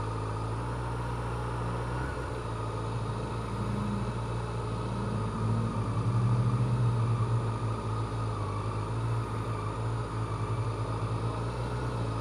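Honda CBR600F4i's inline-four engine running steadily at low revs while riding slowly in traffic. Its note swells a little about halfway through, then settles again.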